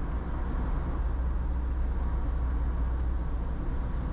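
Steady road noise and low engine rumble of a car driving along at speed.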